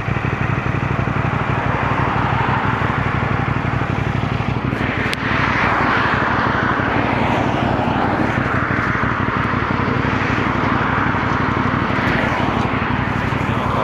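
CFMoto 450NK motorcycle being ridden at road speed: a steady engine drone under heavy wind rush, with one sharp knock about five seconds in. It is picked up by a microphone that has come loose.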